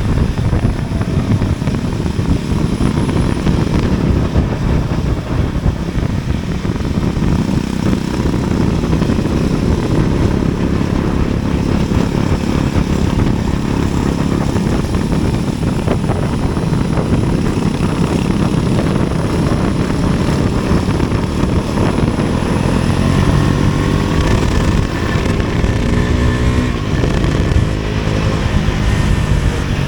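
A vehicle's engine running steadily with road noise, its engine note rising and falling in pitch near the end.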